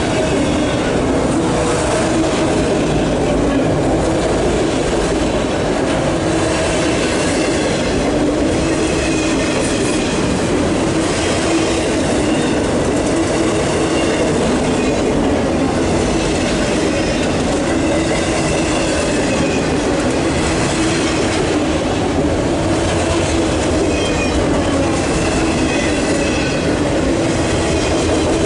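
Empty CSX autorack freight cars rolling past at close range: a loud, steady rumble of steel wheels on rail, with recurring high-pitched wheel squeal.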